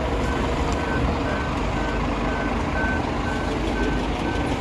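A vehicle's reversing alarm beeping about twice a second, one steady high tone, over the steady low rumble of engines and highway traffic.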